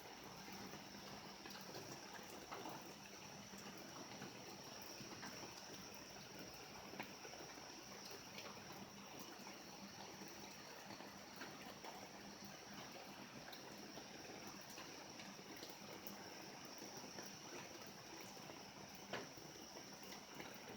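Faint, steady rain with water trickling and dripping, and a couple of small drip ticks; no thunder is heard.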